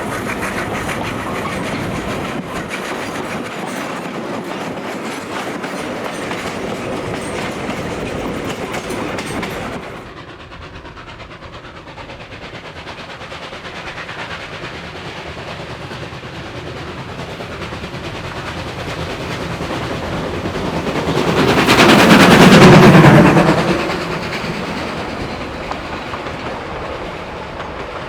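Steam-hauled vintage train running on the rails, wheels clicking over the rail joints. The sound drops suddenly about ten seconds in, then builds to a loud rush about two-thirds through as the train passes closest, and falls away again.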